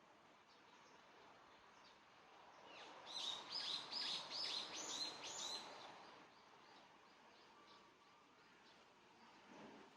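A songbird sings a quick run of about eight repeated, downward-sweeping high notes from about three to six seconds in, over wind noise that swells with it. Faint short bird chirps sound in the background.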